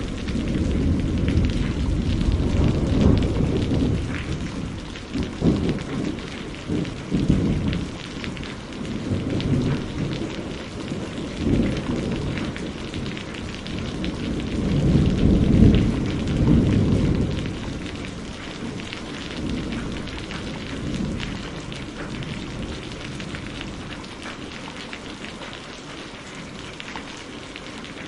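Steady rain falling with rolling thunder rumbling in several long waves, loudest about halfway through, then dying away near the end, leaving the rain alone.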